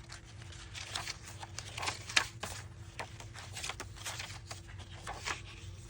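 Paper pages and cards of a handmade junk journal being turned and handled: scattered soft rustles and taps, with a faint steady hum underneath.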